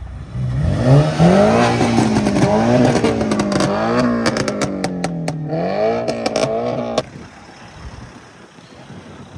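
A car engine revving hard and held at raised revs, its pitch rising and falling, with sharp cracks mixed in. It cuts off suddenly about seven seconds in.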